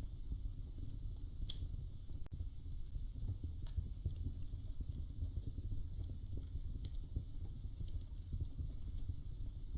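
Wood fire crackling: a steady low rumble of flames with a few scattered sharp pops, the clearest about a second and a half in and near four seconds.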